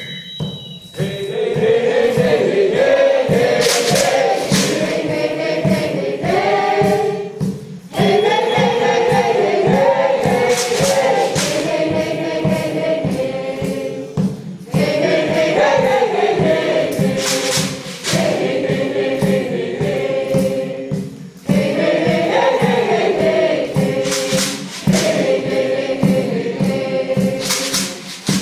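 Music: a choir singing melodic lines over a steady beat, with short pauses between phrases.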